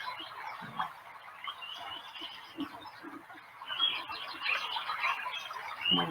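Small birds chirping, with short high calls and trills coming and going over a faint hiss.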